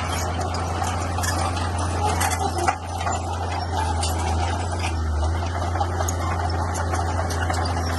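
Bulldozer's diesel engine running steadily under a low hum, with many small clicks and clinks over it.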